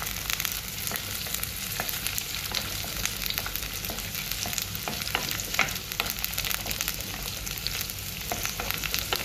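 Sliced garlic, ginger, green chilli and curry leaves sizzling in hot coconut oil, a steady hiss full of small crackles, while a wooden spatula stirs them and scrapes the pan.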